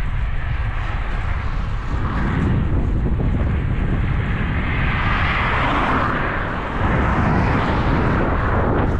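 Wind rumbling and buffeting on the microphone of a moving road bike riding into a strong headwind, with a rushing hiss that swells around the middle and eases off again.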